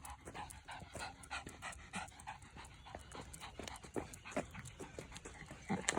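A 15-year-old Yorkshire terrier panting in quick, short breaths, about three or four a second.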